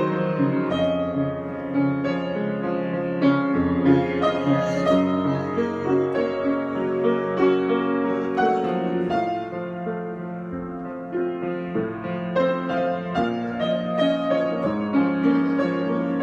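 Solo piano improvisation: chords and melody notes struck at a gentle, flowing pace, with the notes let ring and a brief softer passage about ten seconds in.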